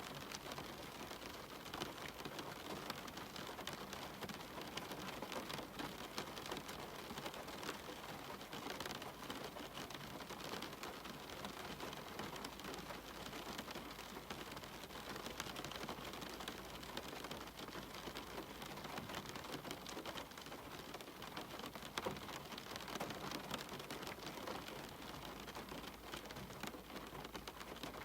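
Steady rain falling, an even hiss scattered with many small individual drop ticks.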